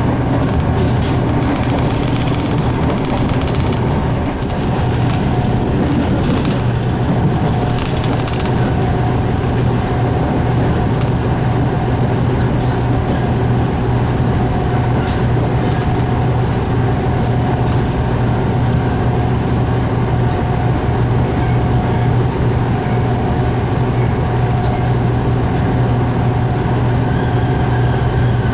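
Diesel railcar running steadily with a constant engine hum, with a few clicks from the running gear in the first several seconds.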